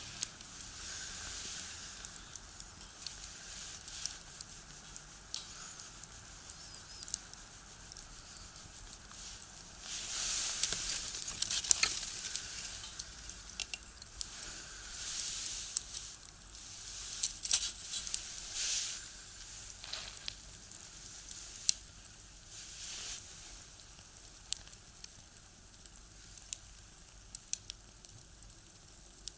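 Firewood burning in a small box stove, crackling with scattered sharp pops, with hissing that swells louder a few times.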